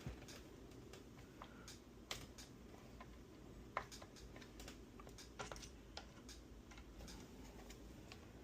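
Faint, scattered small clicks and taps of a screwdriver and screws as a back plate is screwed onto an electric guitar's control cavity.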